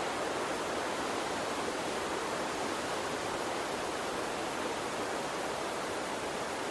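Gentle water stream running steadily: an even rush of flowing water with no separate splashes or changes.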